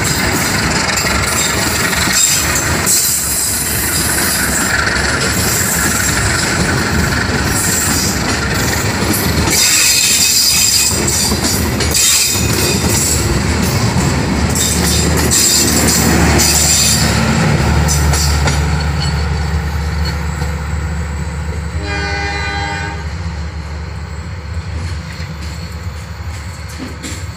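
Passenger coaches rolling past close by, wheels clattering and squealing on the rails, fading as the train pulls away and leaving a steady low drone. A brief horn note sounds about three-quarters of the way through.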